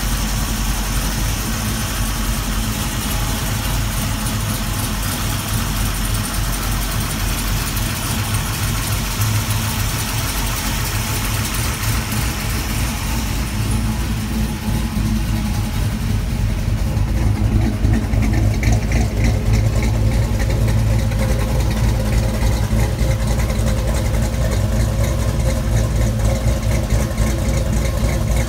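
Freshly rebuilt 383 Chevrolet small-block V8 with a hydraulic roller cam, idling steadily through headers and Flowmaster mufflers. It grows louder about halfway through, as the exhaust note is heard from the tailpipe.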